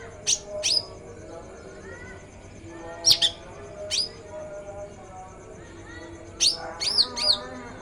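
Songbird giving short, sharp, high chirps and whistles in three bursts: a pair near the start, three a little before the middle, and a quick run of swooping whistles near the end.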